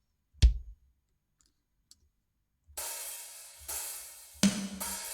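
Sampled drum kit playing back: a single kick-like hit about half a second in, two faint clicks, then from about three seconds a groove of a washy, fairly open hi-hat over kick and snare strikes. A replacement hi-hat sample is being tried after the last one sounded too open.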